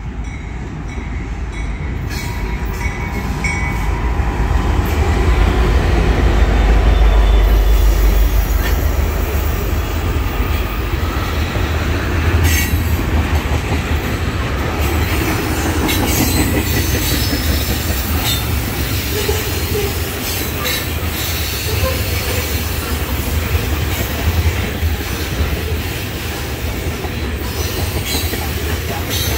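A freight train's diesel locomotives pass close by with a deep rumble that peaks a few seconds in. Loaded oil tank cars follow, their steel wheels rolling on the rails with a steady rumble and occasional sharp clacks at the rail joints.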